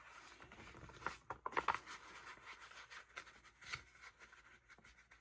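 Faint handling of paper and sticker sheets: a few short rustles and crinkles, the loudest cluster about a second and a half in, with another brief one near the end.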